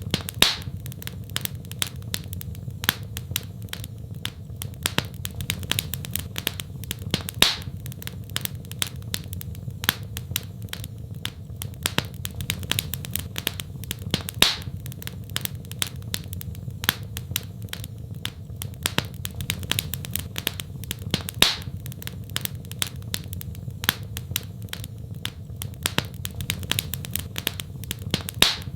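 Wood fire in a fireplace crackling: a dense run of small snaps, with a louder pop about every seven seconds, over a steady low rumble.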